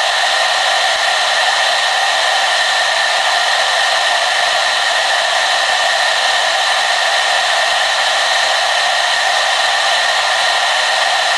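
Hair dryer running steadily: a constant airy rush with a few faint steady tones in it.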